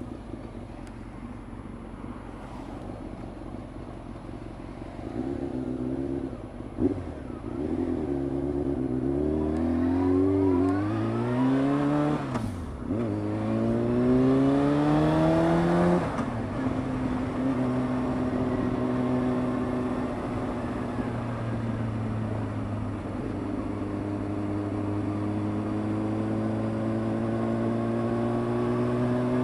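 Honda CBR600 F2 inline-four engine accelerating on the road. It revs up, drops in pitch with a short knock at a gear change about twelve seconds in, pulls up again, eases off, then settles into a steady cruise whose pitch creeps slowly upward. The bike's gearbox shifts hard and clunky, a problem the rider puts down to the clutch, which also slips at high revs.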